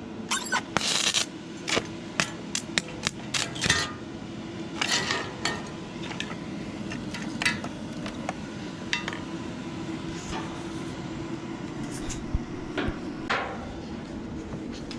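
Sharp metal-on-metal taps and clinks around stick-welded steel: a quick run of knocks in the first four seconds, then scattered ones, over a steady low hum.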